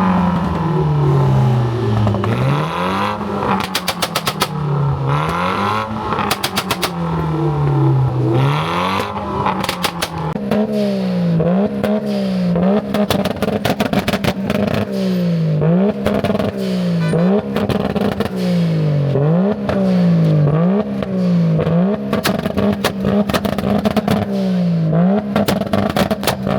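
A car engine revved hard again and again, each rev climbing quickly and falling back, faster and more regular in the second half. Sharp exhaust crackles break out between many of the revs.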